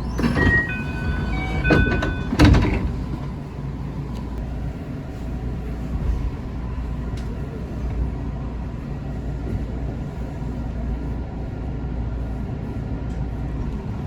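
JR West 221 series electric train running on the line, a steady low rumble heard from on board. In the first couple of seconds there are a few short clear tones at different pitches and some knocks, then a sharp thump about two and a half seconds in, the loudest moment.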